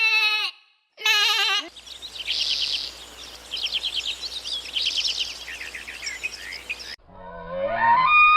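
Two short bleats with a shaky, wavering pitch, then a cut to about five seconds of birdsong: repeated bursts of rapid high notes over a hiss. Near the end a cat begins a long meow that rises in pitch.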